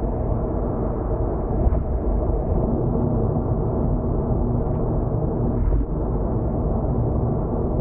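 Steady road and engine rumble of a car cruising on an expressway, heard muffled from inside the cabin, with a few faint ticks.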